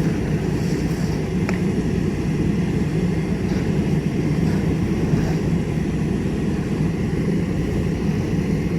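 Steady low drone of a large engine running, most likely a fire engine's diesel idling or driving its pump, with a couple of faint ticks.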